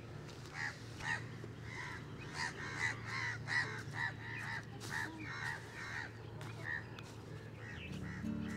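Birds calling: a steady stream of short, repeated calls, several a second, over a low steady hum. Music fades in near the end.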